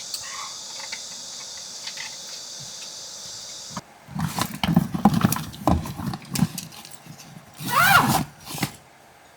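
Steady high insect buzzing that cuts off suddenly after about four seconds, followed by a run of irregular knocks and clatter with a brief rising-and-falling squeal near the end.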